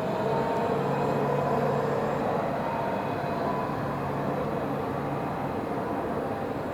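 Tram running on its rails, a steady rumble with faint steady tones over it, a little louder in the first couple of seconds.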